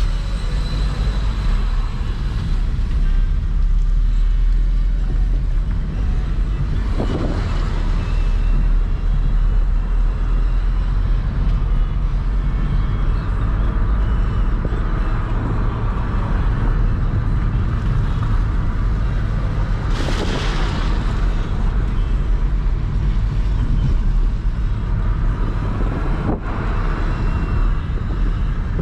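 Floodwater pouring over a reservoir's spillway, a loud steady rush with a deep rumble, with a few brief swells.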